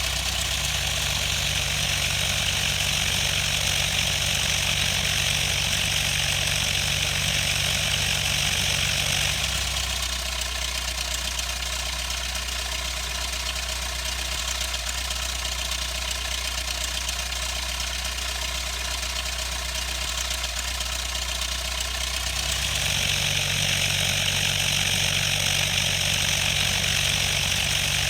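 A Cessna 152's four-cylinder Lycoming engine and propeller running steadily at low, idle-like power. The sound changes character abruptly about a third of the way in and switches back near the end.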